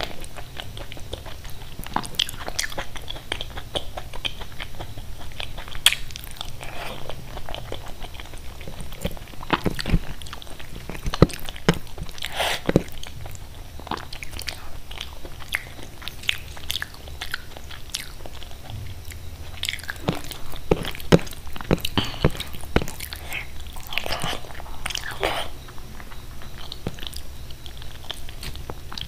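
Close-miked wet chewing and lip smacking of khichdi eaten by hand, with irregular sharp mouth clicks and the squish of fingers working the soft rice on the plate.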